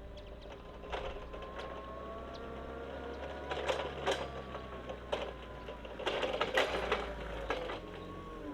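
Linde H20T LPG forklift with its Volkswagen engine running, a steady low hum under a whine that slowly shifts in pitch. Several sharp knocks and rattles come through it, clustered in the middle and later part.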